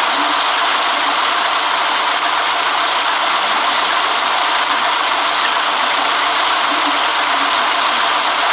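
City bus running, a steady, even mix of engine and road noise heard inside the cabin.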